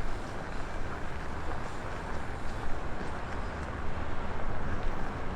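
Strong blizzard wind buffeting an unshielded microphone: a dense, gusting rush of noise, heaviest in the low end, that rises and falls unevenly.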